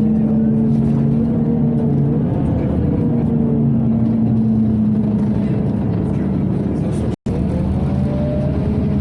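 Cabin sound of a Scania OmniCity city bus on the move: a steady hum from the engine and ventilation, with a whine that slides slowly down in pitch over the first few seconds. The sound cuts out for a moment about seven seconds in, and the whine then climbs again.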